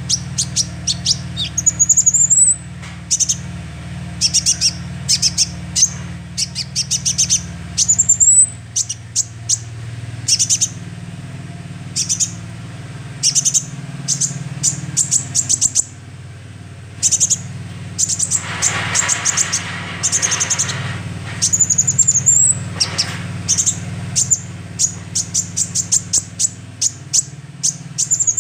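Young sunbird calling in repeated bursts of rapid, high chirps and short trills, some sweeping up into a rising whistle, over a steady low hum. About two-thirds through, a hissing noise rises under the calls for a few seconds.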